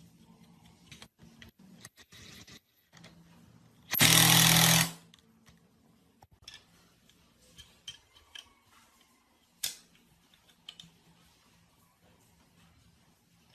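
A power tool runs in one loud burst of about a second, with a steady low hum under a harsh hiss. Scattered light clicks and knocks of tools and metal parts being handled come before and after it.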